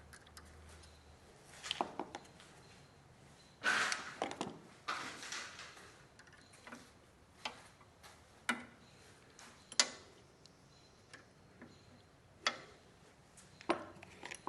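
Scattered clicks and clinks of hand tools against metal parts, as tools are tried on a fastener to find its size. A denser rattle of handling comes about four seconds in, then single sharp clinks every second or so.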